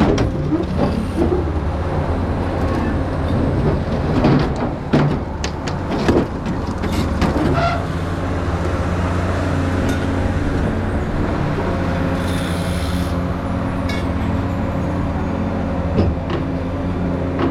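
Develon excavator's diesel engine running steadily while it works, with scattered knocks and clanks from the grapple and boom and a brief hiss about two-thirds of the way through.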